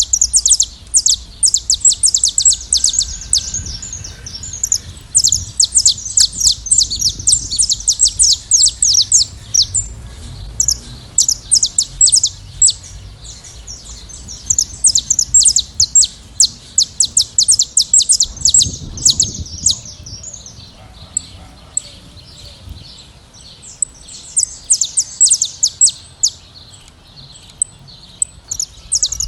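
A flock of saffron finches chirping and singing, with many rapid high chirps overlapping. The chirping thins out for several seconds past the middle, then picks up again near the end.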